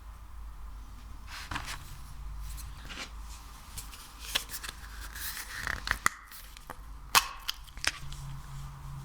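Sticky clicks, crackles and small snaps from slime or wax being pressed and pulled apart close to the microphone, over a low steady hum. The sharpest snap comes about 7 seconds in.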